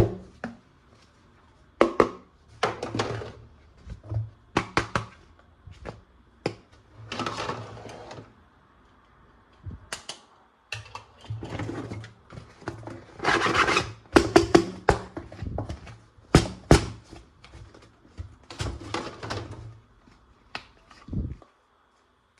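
Hard plastic toy guns and parts being handled: irregular clicks, knocks and clacks with rustling in between, in uneven bursts and short pauses.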